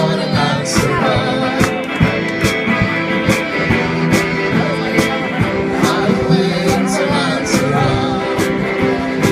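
Live rock band playing an instrumental passage: guitars over a steady drum beat.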